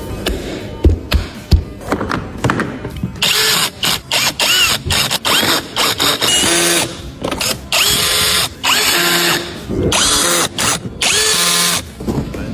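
Handheld power drill run in repeated short bursts, about a dozen triggers of up to a second each, with the motor's whine rising as it spins up at the start of each.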